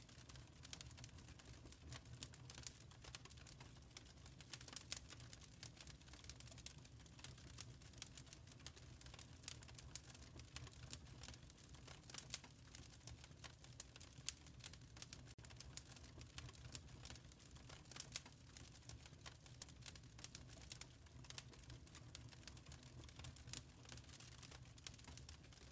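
Wood fire crackling in a fireplace: faint, frequent small pops and snaps over a low steady rumble.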